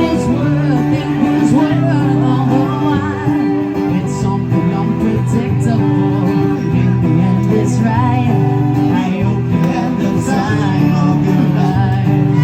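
Live band playing a song: strummed acoustic guitar with singing.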